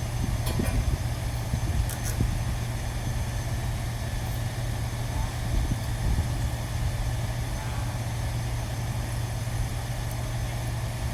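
Steady low drone of a running engine or machine, with a few light clicks in the first two seconds.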